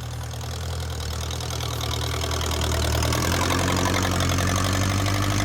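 Massey Ferguson 50 tractor engine idling with its exhaust pipe broken off at the muffler, running steadily and growing slightly louder, its note shifting about three seconds in.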